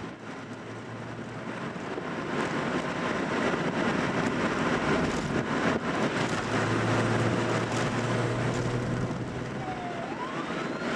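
Classic Nissan Skyline (Kenmeri) engine and road noise while cruising, the engine note growing stronger around the middle. A faint rising whistle-like tone comes in near the end.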